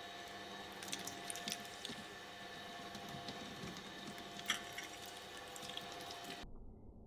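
Electric shredder motor running with a steady hum while slime is fed through it, giving scattered wet crackles and clicks, the sharpest about four and a half seconds in. The hum cuts off abruptly about six seconds in.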